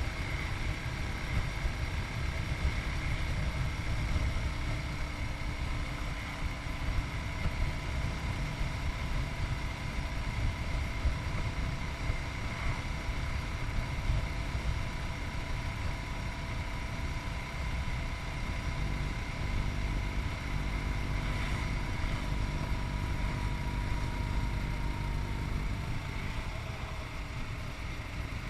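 Yamaha MT-03's 660cc single-cylinder engine running steadily while the motorcycle is ridden on the road, under a heavy low rumble of wind and road noise.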